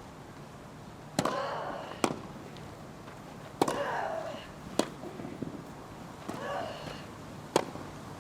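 Tennis rally: a ball is struck back and forth by rackets, with sharp pops about every 1.2 s. On every other shot, one player gives a loud, drawn-out grunt.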